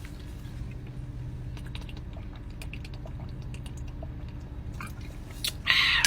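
A person chewing food close to the microphone, with small wet mouth clicks. Near the end comes a louder, noisy crunch or rustle lasting about half a second.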